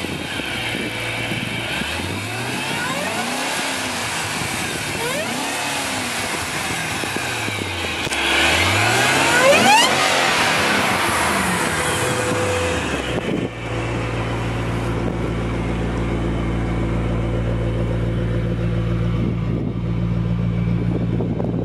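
Supercharged 5.4-litre V8 of a 2008 Shelby GT500 Super Snake being revved at a standstill: a couple of quick blips, then a longer, louder rev about eight seconds in that rises and falls back. It then settles to a steady, low idle.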